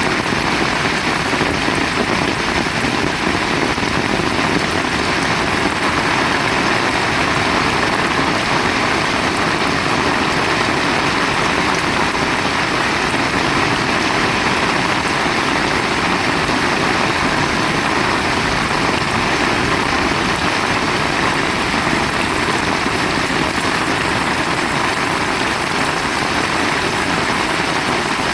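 Heavy rain pouring down steadily, a loud, even wash of noise without a break.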